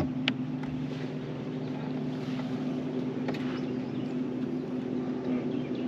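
A boat's motor running with a steady low hum, with a couple of light clicks about a third of a second in and again around three seconds.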